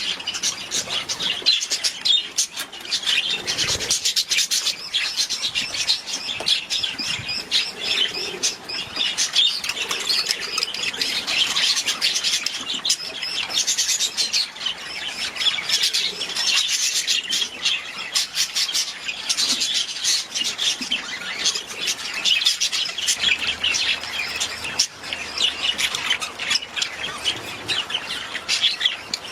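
A flock of budgerigars chattering: many overlapping high chirps and squawks, unbroken throughout.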